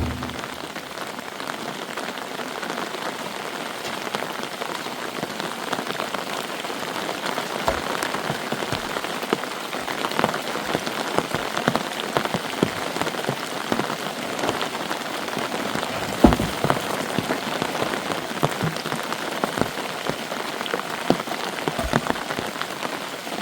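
Steady rain falling, with many separate drops striking close by. A sharper single hit comes about 16 seconds in.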